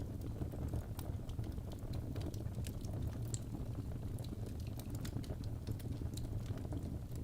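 Wood fire burning in a fireplace: a steady low rumble of flames with irregular sharp crackles and snaps from the burning logs.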